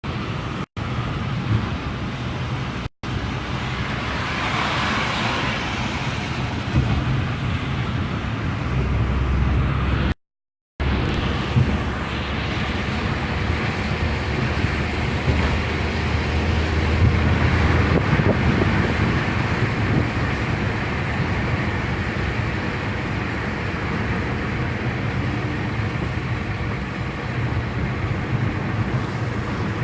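A car driving along a road: steady engine and tyre noise with a low drone. The sound cuts out completely for an instant three times, once for about half a second.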